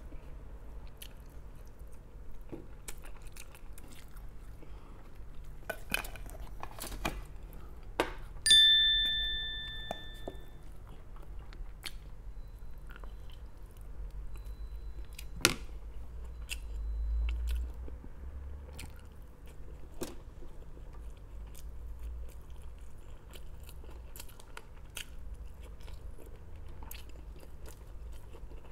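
Close-up chewing and biting of a person eating rice, pork humba and crisp dried fish by hand, with many small wet clicks and crunches. About eight seconds in comes a single clink that rings on for about two seconds, and a sharp click follows at about fifteen seconds.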